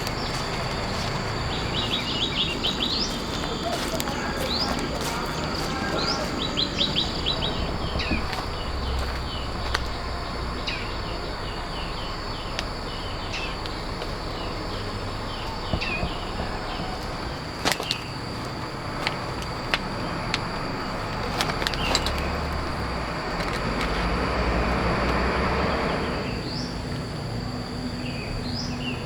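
Birds chirping and trilling in short repeated phrases over a steady outdoor hiss, with a few sharp clicks and a louder rush of noise near the end.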